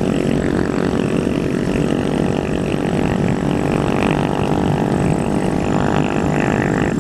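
Husaberg four-stroke single-cylinder motorcycle engine pulling steadily under way, its exhaust note holding a fairly constant pitch.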